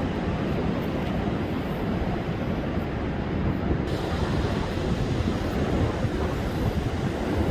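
Rough storm surf breaking continuously in strong wind, a steady heavy wash of waves with wind rumbling on the microphone.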